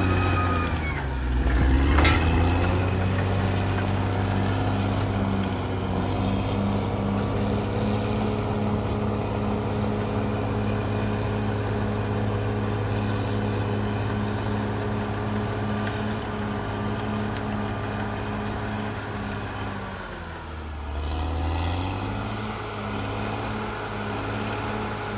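Caterpillar D6R XL bulldozer's diesel engine running steadily. Its pitch sags briefly about a second in and again near the end, then picks back up.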